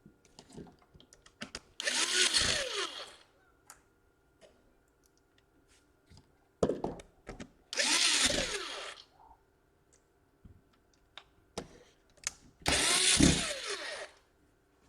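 A small electric screwdriver running in three short bursts about five seconds apart, its motor pitch sliding as it drives the screws, with light clicks of handling between the bursts.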